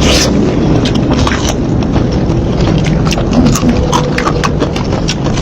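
Close-miked eating of seafood in Padang sauce: wet chewing and lip smacks, many short sharp clicks over a steady low background rumble.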